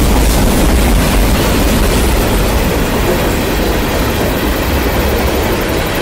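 Covered hopper and tank cars of a long freight train rolling past close by: a loud, steady rumble of steel wheels on rail.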